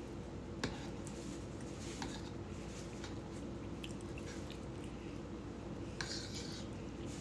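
Close-up chewing of a mouthful of bread with mashed potatoes and gravy, with a metal fork clicking and scraping against a ceramic bowl a few times, the sharpest click about half a second in and a scrape near the end.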